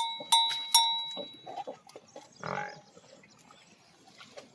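A metal animal bell clanging, about three strikes a second, which stops after the first second. A short animal call comes about two and a half seconds in, with the bell quiet.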